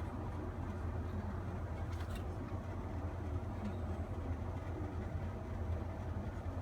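Steady low mechanical rumble with a faint click about two seconds in.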